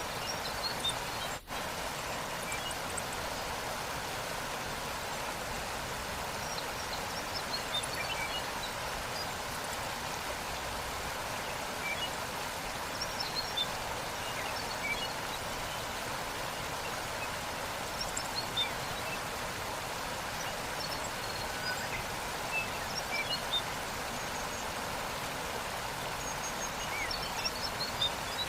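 Waterfall: a steady rush of falling water, with small birds chirping now and then. The sound drops out briefly about a second and a half in.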